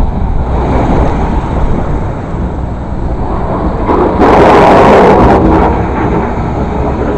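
Snow-clearing trucks rumbling past in the storm, a steady low engine noise, with a louder rush of noise about four seconds in that lasts about a second and a half.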